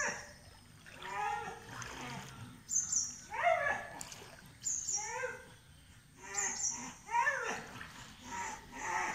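A bird calling over and over, short calls that rise and fall in pitch about once a second, with some splashing of floodwater.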